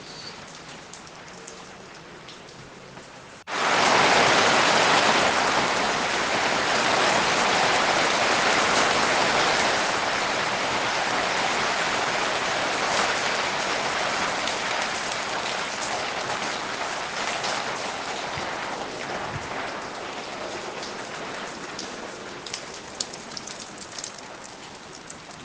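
Rain falling on surfaces: light rain with scattered drips, then about three and a half seconds in it suddenly gets much louder into a heavy downpour, which slowly eases, with separate drips heard again near the end.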